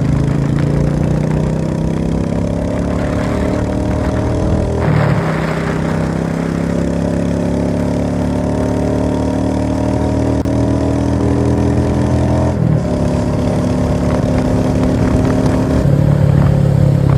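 Vehicle engine running on the move, its pitch shifting a few times: a small drop about five seconds in and another change about thirteen seconds in.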